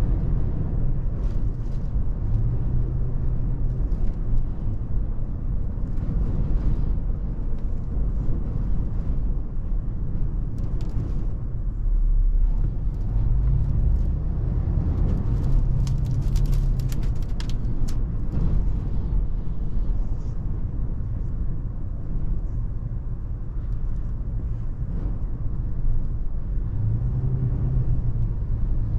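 Toyota FJ Cruiser's V6 engine and tyres rumbling steadily while driving, the engine note rising and easing off a few times. A brief patch of light ticking comes through about halfway.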